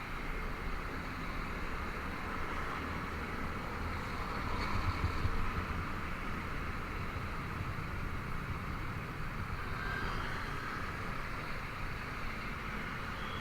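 Honda Vario 125 scooter's single-cylinder engine running while riding, mixed with wind and road noise. The sound swells briefly about five seconds in.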